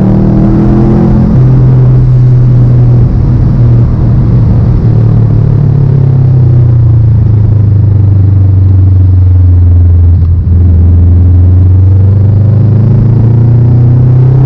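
Car engine and exhaust running loud and steady under light load, its pitch sinking slowly over several seconds as the revs drop, then rising again near the end as it accelerates.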